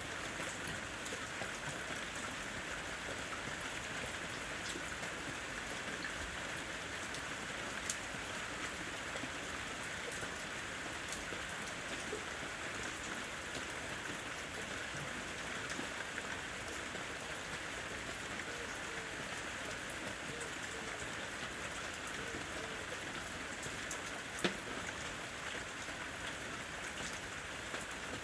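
Steady rain falling on a house roof, a dense even patter with scattered individual drops ticking through it, and two sharper drop hits, one about eight seconds in and one near the end.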